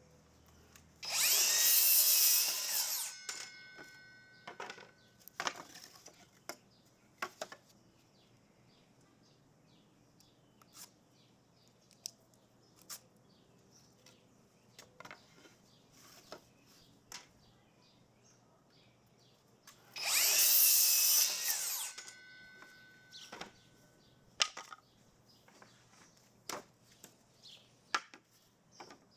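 A power tool working into wood in two bursts of about two seconds each, one near the start and one about twenty seconds in, each trailing off with a brief ringing tone. Light knocks and clicks of handling wood and tools come in between.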